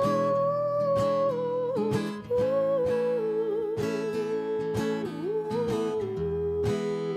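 Live acoustic music: an acoustic guitar strummed and plucked under a long melody line held on sustained notes that waver and slide in pitch.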